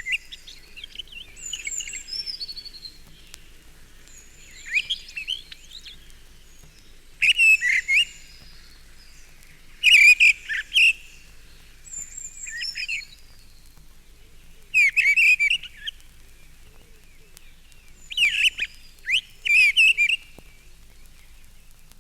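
Mistle thrush giving its sub-song at close range: short, quiet-ish warbled phrases repeated every two or three seconds, with thin high calls of a blue tit in the background.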